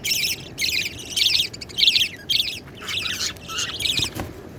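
Budgies calling: a quick run of short, scratchy high chirps, about two a second, which stops a little before the end.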